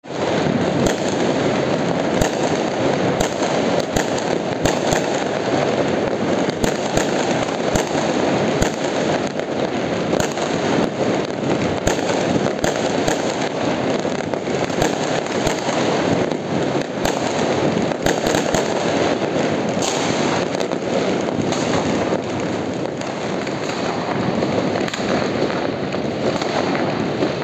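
Many fireworks and firecrackers going off at once across a neighbourhood on New Year's Eve: a dense, unbroken crackle of explosions with frequent sharper bangs, several every few seconds.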